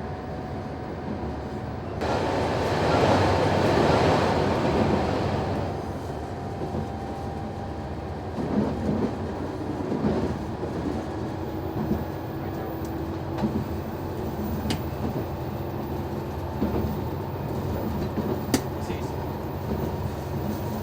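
Noto Railway NT100 diesel railcar running along the line, with a steady engine drone and irregular clacks of wheels over rail joints. A louder rushing stretch comes a couple of seconds in and lasts about four seconds.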